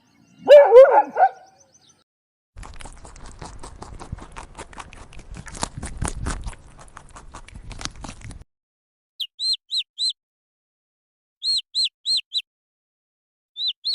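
A dog barks once, loudly, about half a second in. A stretch of dense crackly clicking follows, then short high chirps in two quick runs of four, with one more chirp near the end.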